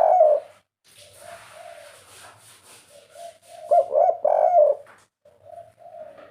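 Spotted dove (tekukur/derkuku) cooing in the three-note "kuk 3" style kept by bird hobbyists. A loud phrase of coos comes at the start and another about four seconds in, with softer low coos between them.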